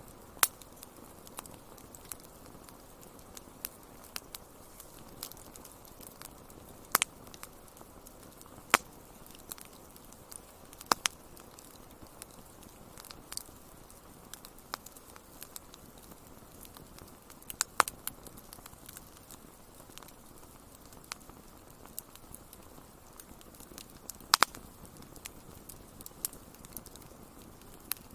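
Wood fire crackling in a fireplace: sharp, irregular pops and snaps, a few much louder than the rest, over a steady low rushing hiss.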